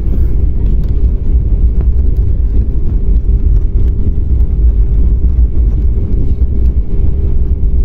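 Airliner jet engines running, heard inside the passenger cabin as a loud, steady low rumble with a constant hum running through it.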